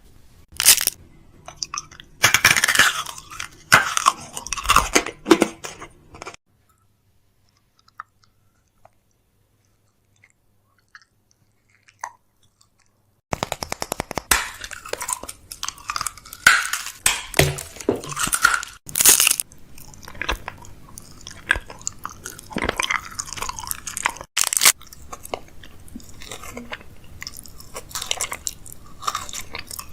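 Crinkling plastic packaging with clicks and knocks of containers being handled while a fridge is restocked. A gap of near silence lasts about seven seconds in the middle.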